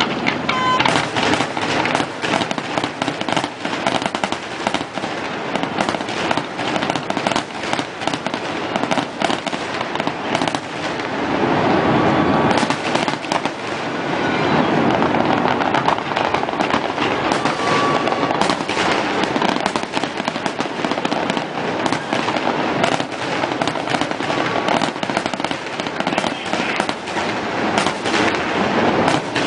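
Fireworks going off without a pause: a dense, continuous run of bangs and crackles.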